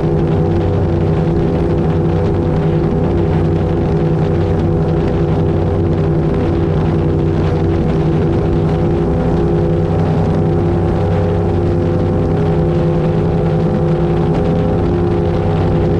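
Avanti 33's twin V8 engines running at a steady cruising speed, with a constant even drone and the rush of water and wind on the hull.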